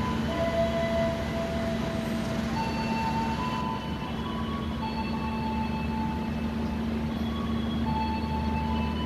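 Steady low hum of a train at a station, an Indonesian diesel locomotive running without change. A soft melody of held notes, changing pitch about once a second, plays over it.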